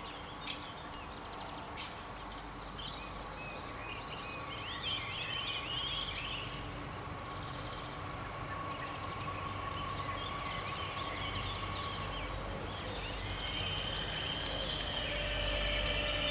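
Birds chirping, then the growing rumble and high rail hiss of an approaching passenger train, getting louder over the last few seconds.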